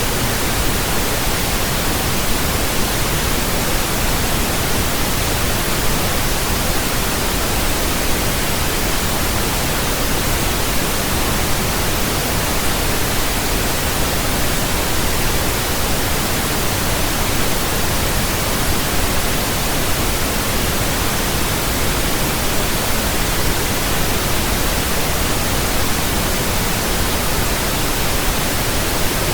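Steady, unchanging pink noise: an even hiss spread across all pitches, with a soft low rumble beneath it.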